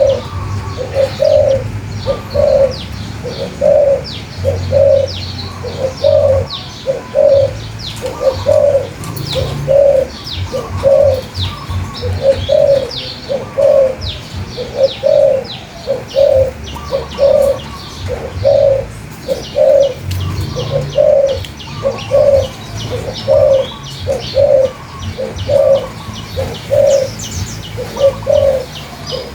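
A dove cooing over and over, about one coo a second, the loudest sound. Small birds chirp rapidly and high-pitched behind it, over an off-and-on low rumble.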